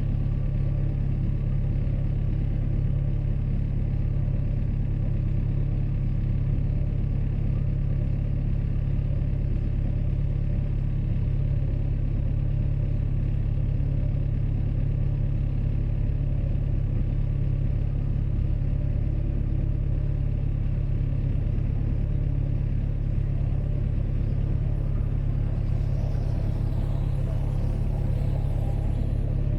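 A boat's engine running steadily while cruising, a low, even drone that does not change.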